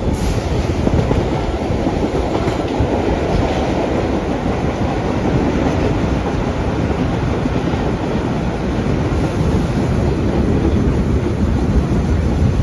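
Vintage R1/9 "Arnine" subway car running along the track, a steady loud rumble of wheels on rail heard from aboard the moving train.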